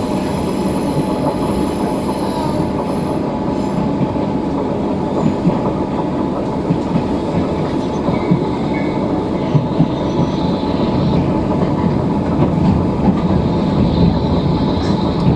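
Train running noise heard from inside the carriage: a steady rumble of wheels on rails with scattered clacks and a faint steady hum.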